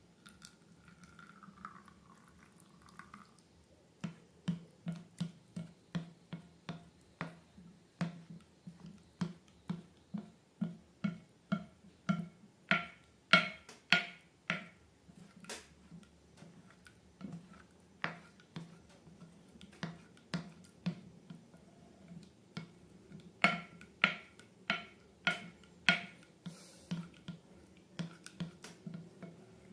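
Slime being squeezed and poked, making a run of sharp wet clicks and pops about two a second, starting about four seconds in. The pops are loudest near the middle and again toward the end.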